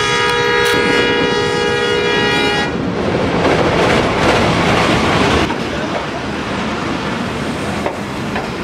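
Diesel locomotive horn sounding one long chord of several notes for about three seconds, cutting off suddenly. The locomotive then passes close with a loud rush of engine and wheel noise, and the passenger coaches roll by more quietly.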